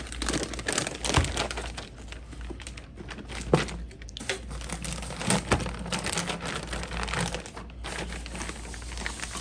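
Plastic wrap and packing material crinkling and rustling as a shipping tube holding a vinyl graphics kit is unwrapped and popped open, with a few sharp knocks and cracks.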